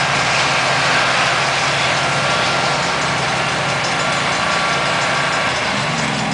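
Diesel passenger train running steadily as it pulls away, with an even hiss over a low engine hum. Near the end a lower engine note rises as road traffic starts across.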